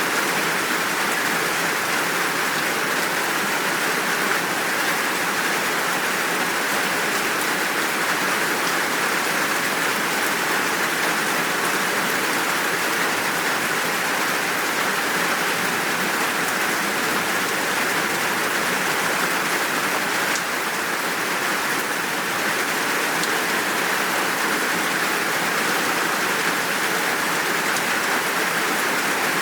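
Steady, full downpour of rain: an even, unbroken hiss with no thunder or birdsong.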